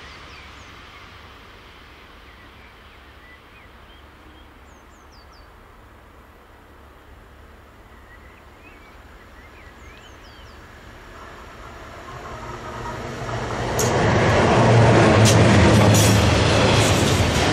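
DB Class 185 electric locomotive hauling an intermodal freight train, quiet at first, growing louder from about eleven seconds in and passing close by about three seconds later. The wagons then rumble past with a strong low hum and a run of sharp wheel clicks over the rails.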